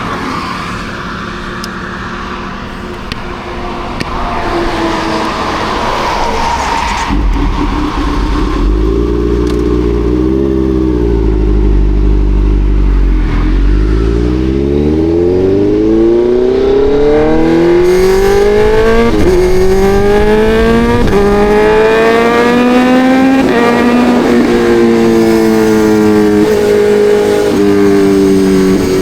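Kawasaki Ninja 1100SX's inline-four engine running at low revs, then accelerating hard from about a third of the way in. The pitch climbs and drops sharply at each upshift, about four gear changes in the second half.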